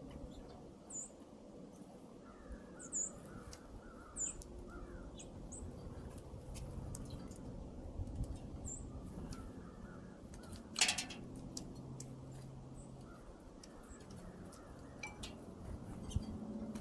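Birds at a feeder giving short, high chirps, mostly in the first half, among scattered light taps and clicks, with one louder click about eleven seconds in.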